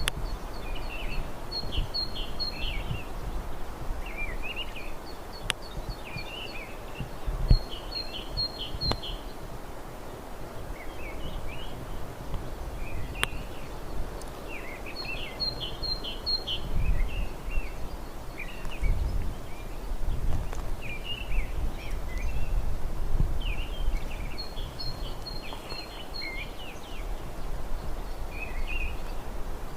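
Forest ambience: songbirds singing short phrases of quick chirps and trills, repeating every few seconds, over a steady background hiss with occasional low rumbles.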